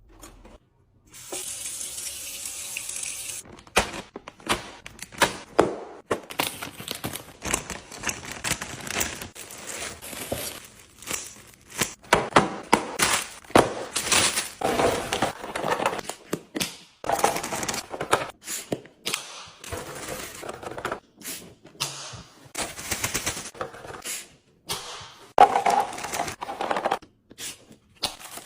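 Plastic and glass food containers and packaging being handled and set down while a refrigerator is restocked: many sharp clicks and knocks with rustling between them. A steady hiss runs for about two seconds near the start.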